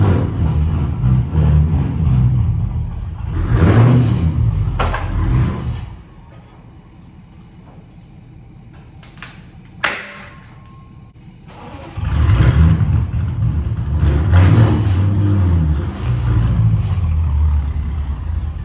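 Twin-turbo car engine with catless downpipes, running and revving. It drops away to a low level for about six seconds, with one sharp click in the middle, then is heard running loudly again.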